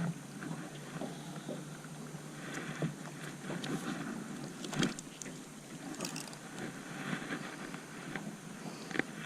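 Wind on the microphone and faint water noise around a jon boat, with a few scattered light knocks and taps.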